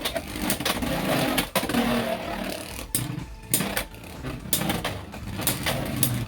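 Two Beyblade X Hells Hammer 3-70 Hexa tops spinning against each other in a plastic stadium: a steady whirring broken by sharp clacks, eight or so, as they collide.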